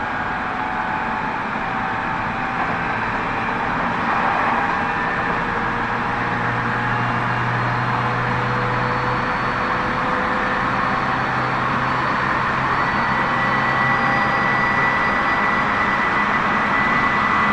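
Tobu 30000 series electric train running between stations: a steady rumble of wheels on rail with faint whining tones that shift slowly in pitch, gradually getting a little louder.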